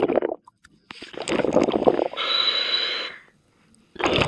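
Scuba diver breathing underwater through a regulator. There is a gurgling burst of exhaled bubbles, then a steady hiss of an inhale through the demand valve, then exhaled bubbles again near the end.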